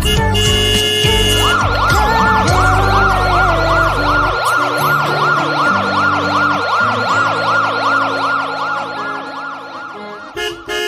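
Electronic siren sound effect, a fast rising-and-falling wail repeating about three or four times a second, over background music; it fades away over the last couple of seconds.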